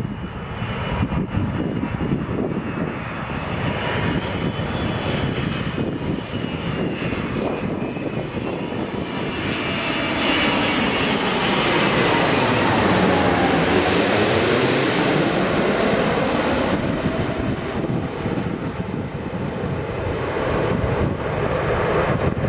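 Korean Air Airbus A380-800's four Engine Alliance GP7200 turbofans on landing, the jet passing close by. The engine noise swells to its loudest midway with a falling whine, then eases off.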